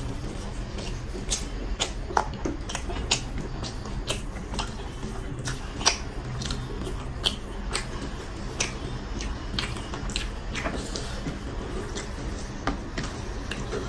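Close-up eating sounds of a man chewing mouthfuls of chicken biryani eaten by hand: wet chewing with sharp lip-smacking clicks, irregular, about one or two a second, over a low steady hum.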